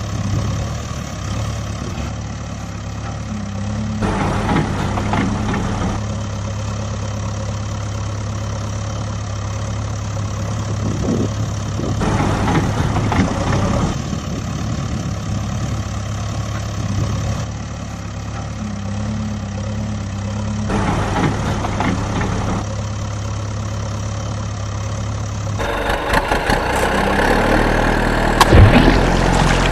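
Engine idling steadily, a low even hum whose sound switches abruptly every few seconds. Near the end it changes to a louder, busier engine sound with a sharp knock.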